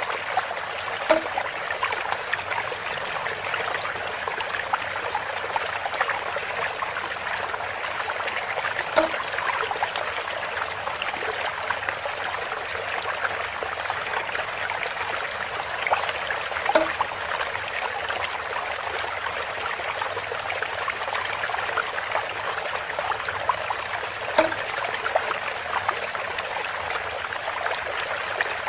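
Water trickling steadily through bamboo, with a small clear plink of a drop landing every seven or eight seconds.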